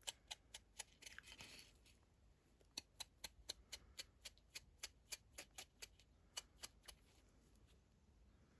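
Faint, rapid light taps, about four a second, of a small sponge dabbing gold gilding paste onto the edges of a craft ornament, with a brief soft rustle just after the start. The tapping stops about seven seconds in.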